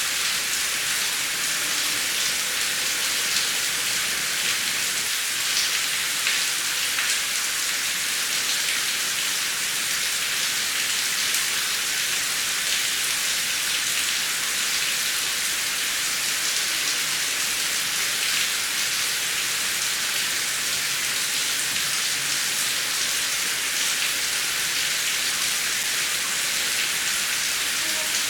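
Heavy rain falling steadily, a dense even hiss with patters of individual drops and no thunder.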